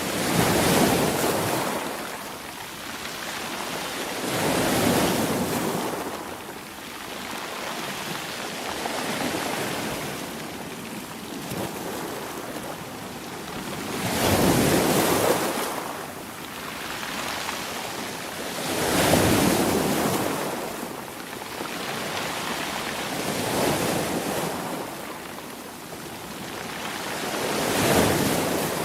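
Sea waves breaking and washing in a slow, even rhythm, each surge swelling and fading about every four to five seconds; the strongest come about a second in, around the middle, and near the end.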